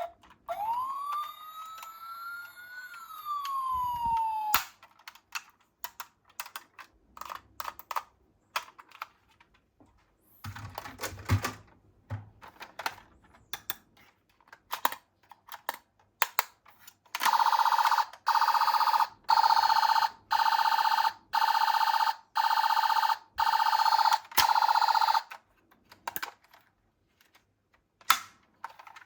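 Electronic toy police car siren: one wail rising then falling, then about eight seconds later a loud pulsing siren tone repeating about once a second. In between come scattered sharp clicks and clatter of small die-cast or plastic toy cars being handled.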